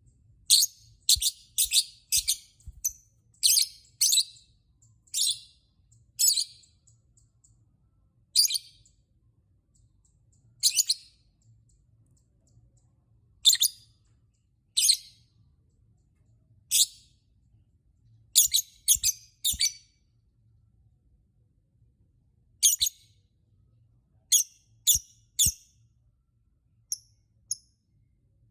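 Lovebird giving short, sharp, high-pitched chirps in irregular runs: quick clusters at first, then more spaced out, with a couple of fainter calls near the end.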